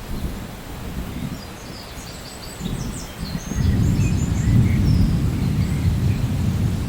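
Low rolling thunder rumbling, swelling and growing loud about halfway through, while birds chirp in short high notes above it.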